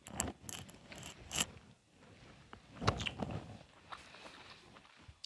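Close-miked eating sounds on a clip-on microphone: moist chewing with small crackles and mouth clicks, a little louder about three seconds in.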